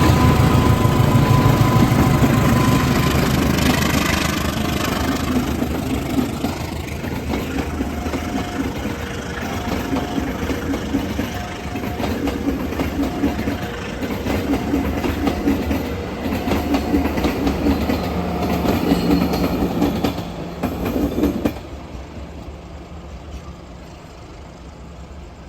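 A train passing close by, its engine rumbling loudly at first, then the wagons clattering rhythmically over the rail joints until the last car clears, about 21 seconds in. Short, evenly repeated two-note electronic tones sound beneath the clatter, typical of a level-crossing warning alarm.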